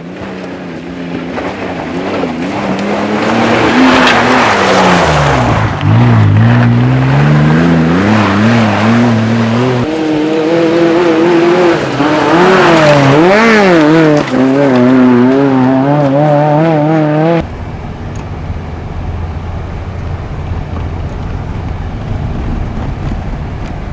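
An off-road 4x4's engine revving hard, its pitch rising and falling with throttle and gear changes as it drives a dirt trail, getting louder over the first few seconds. About two thirds of the way in it cuts off suddenly to a quieter, steady engine noise without a clear pitch.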